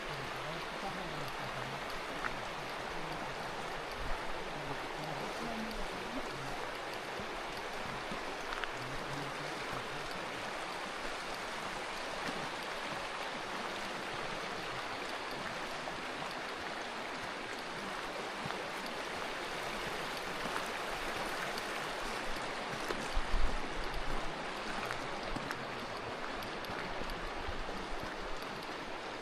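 Steady rush of the Curueño, a mountain river running over rocks, with a brief low thump about 23 seconds in.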